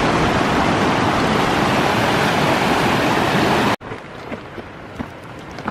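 Loud, steady rushing of wind and water on a lake, with the wind buffeting the microphone. It cuts off abruptly a little under four seconds in, leaving a much quieter outdoor background with a few faint clicks.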